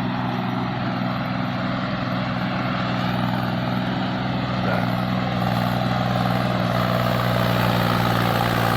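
Diesel tractor engine running steadily, getting a little louder in the second half.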